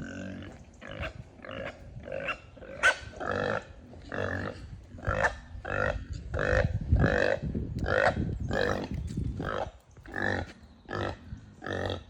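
Pigs grunting and squealing: a steady run of short calls, about two a second.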